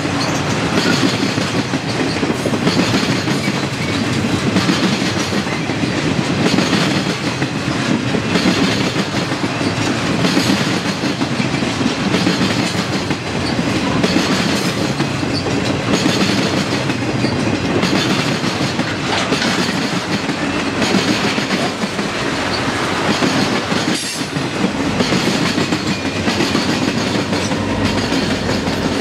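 Freight cars of a Canadian Pacific continuous-welded-rail work train rolling slowly past close by, their wheels clicking over the rail joints with a pulse about every two seconds as each car goes by. Near the end the trailing EMD SD40-2 diesel locomotives come by, adding a low engine rumble.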